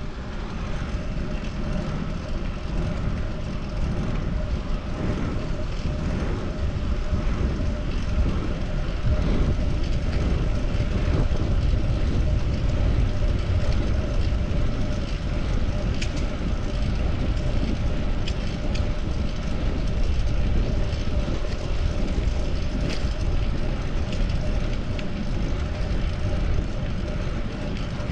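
Wind and road noise while riding a fixed-gear bicycle: a steady rush, heaviest in the low end, over a faint steady hum, with a few short clicks in the second half.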